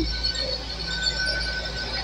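Great Western Railway Class 802 train running alongside the platform: a steady low rumble with a faint thin whine that comes and goes.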